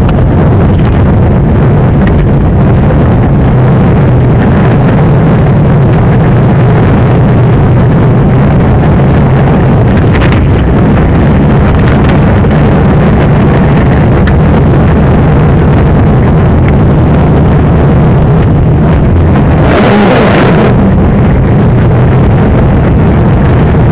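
1997 Jeep Grand Cherokee with the 4.0 engine and 4WD making a loud, steady low drone, the unusual noise the owner wants identified. A brief rush of noise comes about twenty seconds in.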